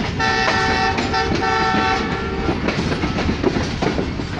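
Train horn sounding two blasts, a chord of several tones, the first about a second long and the second shorter. Underneath, the rumble and clickety-clack of train wheels on the rails carries on after the horn stops.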